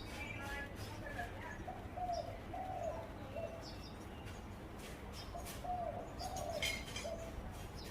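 Zebra dove cooing: two runs of short, soft coo notes, one about two seconds in and one near the end. Thin chirps of other small birds sound over it.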